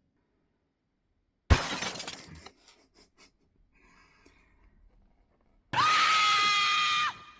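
A sudden crash like breaking glass, with scattered tinkling clicks dying away over about a second. Near the end comes a steady held tone, flat in pitch for about a second and a half, that stops abruptly.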